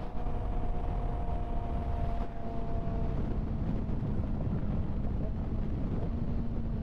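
Kawasaki ZX-6R 636's inline-four engine running at a steady cruise, its pitch easing down slightly over the first few seconds and then holding, with heavy wind rush on the microphone.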